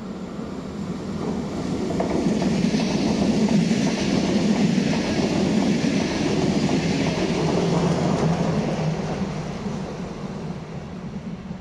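Deutsche Bahn Intercity 2 double-deck electric train passing close by: the running noise of wheels on rail grows over the first couple of seconds, stays loud and steady for several seconds while the coaches go past, then fades as the train moves away.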